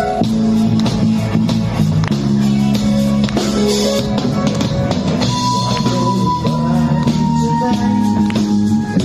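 Band music: a drum kit keeps a steady beat under bass and guitar, with long sustained chords.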